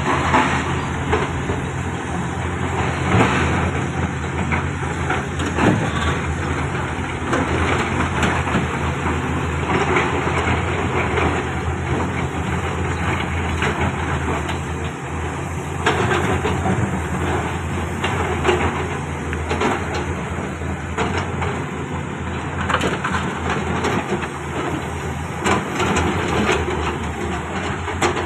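Excavator's diesel engine running steadily at construction work, with irregular knocks and scraping throughout.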